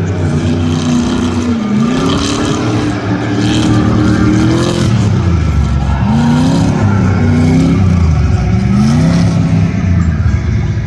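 Side-by-side UTV engine revving hard under racing throttle. Its pitch climbs for several seconds, drops, then rises and falls quickly a few more times as the throttle is worked.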